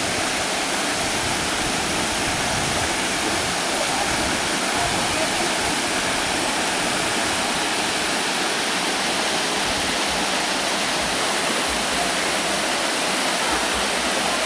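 Waterfall water pouring and splashing, a steady loud rushing hiss with no breaks.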